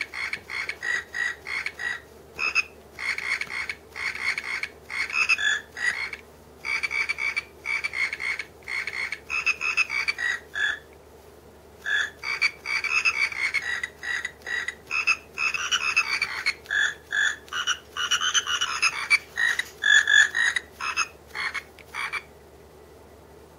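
Battery-powered frog hand puppet playing a Christmas song as a string of short croaking notes that change pitch to trace the melody, one note per snap of its mouth. It pauses briefly about 11 seconds in and stops about 22 seconds in.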